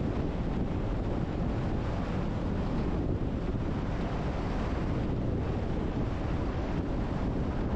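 Steady wind rushing over the microphone, mixed with the road and tyre noise of a car driving at a constant speed.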